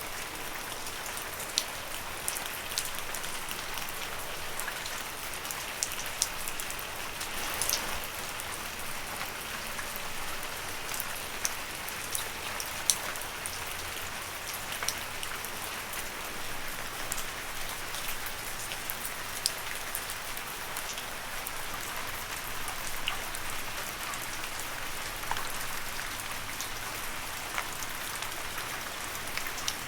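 Steady gentle rain falling on leaves, a constant patter with individual drops clicking sharply every second or so.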